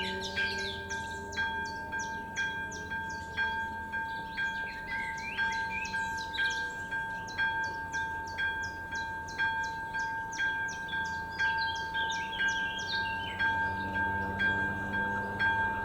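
Electronic crossing bell (AŽD ZV02 e-bell) at a level crossing ringing steadily with evenly spaced dings, about two a second, while the crossing warning is active.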